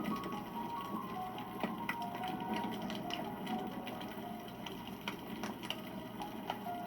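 Wood fire crackling, with many small irregular snaps and pops. Soft background music runs under it, a slow line of single held notes.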